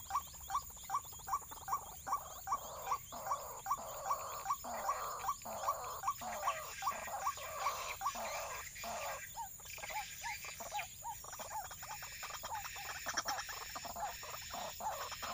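Animal calls: short notes repeated evenly about three times a second, giving way about halfway through to a denser, irregular chorus of overlapping calls.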